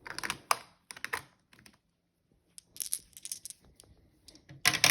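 Marbles clicking and rattling against each other in three short clusters of sharp clicks.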